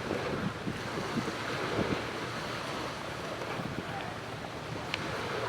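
Steady rushing noise of wind buffeting the microphone outdoors.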